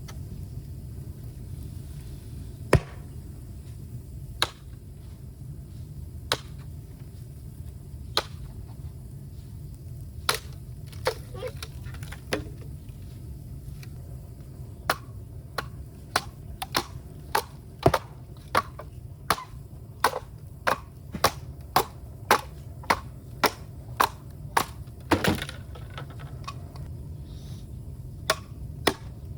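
Bamboo being chopped and split with a blade, sharp woody strikes. They come every couple of seconds at first, then speed up to a steady run of about one and a half a second from around halfway, over a steady low rumble.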